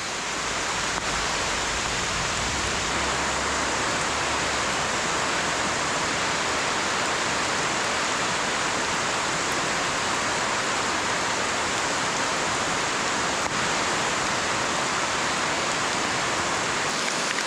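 Steady, even hiss of rushing water from heavy rain falling and the river flowing.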